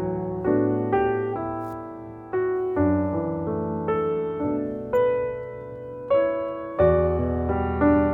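Background piano music: slow chords and notes struck at a steady, unhurried pace, each dying away before the next.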